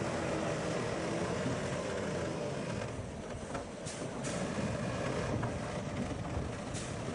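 Heavy diesel earthmoving machinery running steadily, with a few short sharp clanks about four seconds in and again near the end.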